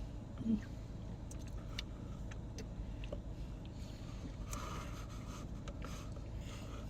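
Steady low hum of a car idling, heard inside the cabin, with scattered faint small clicks and a brief soft rustle about four and a half seconds in.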